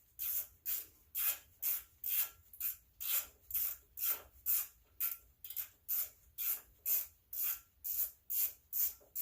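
Ratchet wrench being swung back and forth to back out a small 10 mm bolt, each return stroke giving a quick run of pawl clicks, about two and a half strokes a second.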